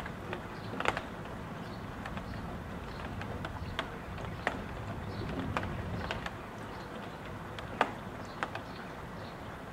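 Gusting wind and rain heard from inside a house: a steady rush with scattered sharp taps and drips of water striking, two of them louder, about a second in and about eight seconds in.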